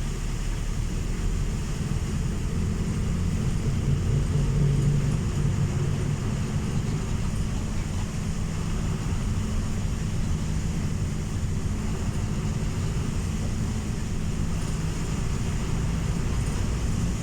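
Steady low rumble of a vehicle travelling, swelling slightly about four to five seconds in.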